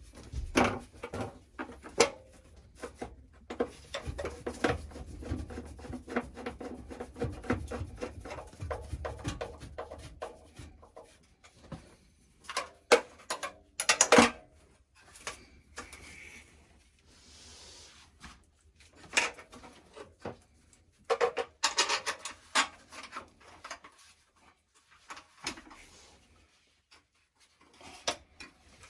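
Irregular clicks, knocks and scraping of small metal parts being handled while a screw and bracket are refitted on a gas water heater, with a few louder knocks scattered through.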